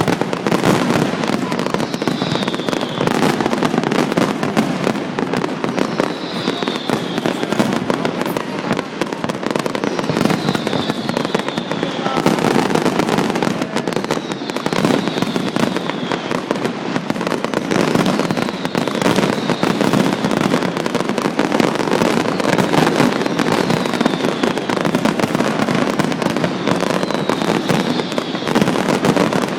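Fireworks display: a dense, continuous barrage of bangs and crackling, with a short falling whistle about every four seconds.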